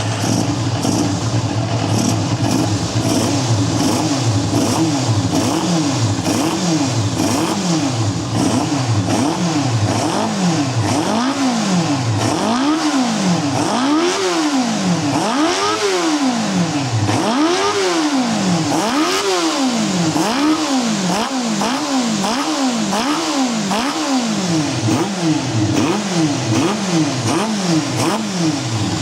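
Feather 250 engine running just after starting, its throttle blipped again and again, so the pitch swells up and falls back about once a second, the revs going highest for a few seconds midway.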